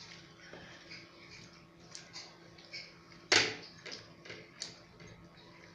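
Close-up eating sounds: puri and dal being chewed with small, wet mouth clicks scattered through, and one sharp, much louder clack a little past halfway.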